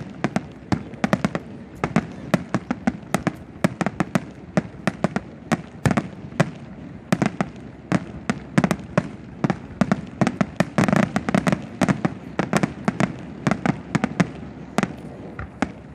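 Fireworks display: a rapid, continuous string of sharp bangs and crackles from bursting aerial shells, several a second.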